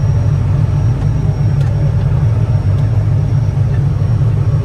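Quad-track tractor engine running steadily under load as the tractor pulls ahead, a loud low drone.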